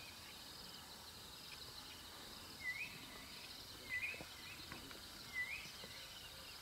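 Steady high chirring of insects, with a bird repeating a short rising call about every one and a half seconds.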